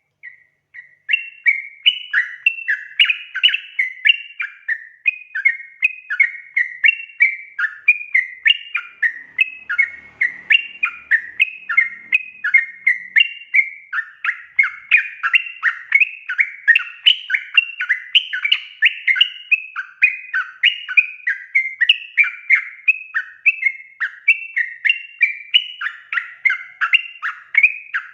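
Yellow-vented bulbul (trucukan) singing loudly and without a break: a fast, continuous run of short bubbly chattering phrases, starting about a second in.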